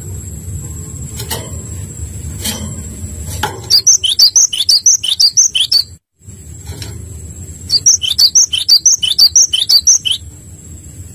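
A small songbird calling in two fast runs of sharp, high chirps, each lasting a couple of seconds, with a brief break of silence between them. A low background rumble and a faint steady high whine lie beneath.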